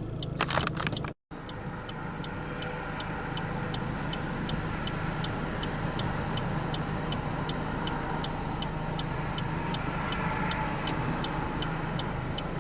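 A car's turn-signal flasher ticking steadily, a little under three clicks a second, over the low hum of the idling engine in a stopped car. A few sharper clicks come in the first second, and the sound cuts out briefly about a second in.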